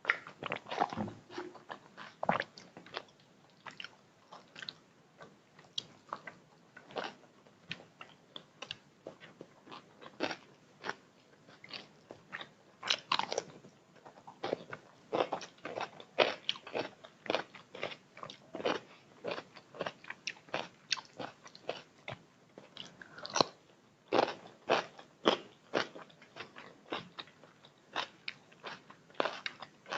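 A person chewing and biting food close to the microphone, with frequent crisp crunches, about two or three a second, in an uneven rhythm.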